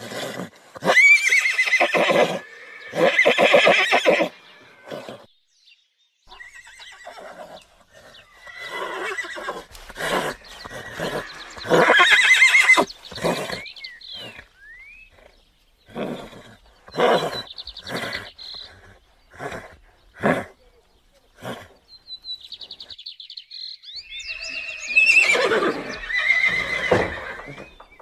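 Horses neighing: a series of loud whinnies, each a second or two long with a quavering pitch, coming in several bouts with short pauses between.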